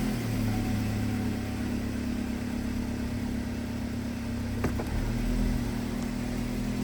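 2015 Chevy Equinox 2.4L four-cylinder engine running steadily, with a single sharp click a little over halfway through.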